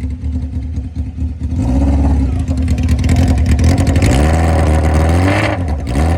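Motorcycle engine idling and being revved: the pitch steps up about a second and a half in, then climbs in a long rising rev and drops back to idle near the end. The engine is running pretty sweet.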